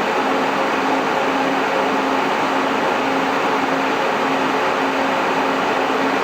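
MJ Research PTC-225 Tetrad thermal cycler running, its cooling fans giving a steady whir with a hum that pulses evenly on and off.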